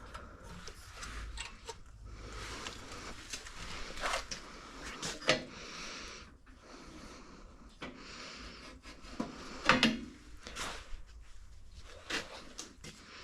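Handling noises: scattered clicks, knocks and scrapes, with two louder knocks about five and ten seconds in.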